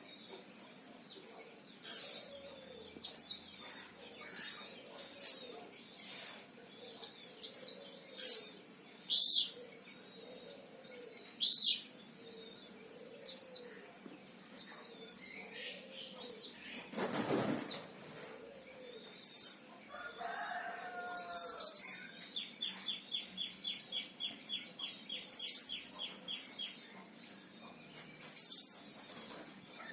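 Caged mantenan (silver-eared mesia) singing: loud, sharp chirps and short whistles repeated throughout, with a fast rattling trill a little past the middle. A brief rustle or flutter comes just past the middle.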